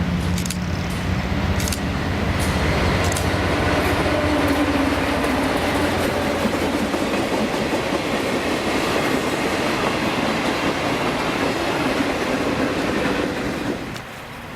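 Freight train passing behind Alco six-axle diesel locomotives. The locomotive's engine hum dies away over the first few seconds, then the cars roll by with steady wheel and rail noise and a few sharp clicks. The sound drops off suddenly near the end.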